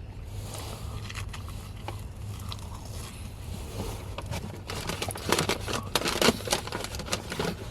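Close eating noises: crunchy chewing and crackly handling, growing busier and louder about five seconds in, over a steady low hum.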